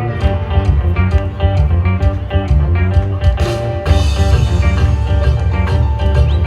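Guanacaste folk dance music playing: a plucked-string melody of quick repeated notes over a strong bass line, growing fuller about four seconds in.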